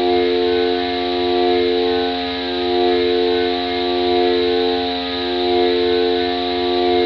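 Synthesizer drone from a Korg Volca Modular using FM: a sustained chord of steady tones that swells and fades about every one and a half seconds, over a fast low pulsing.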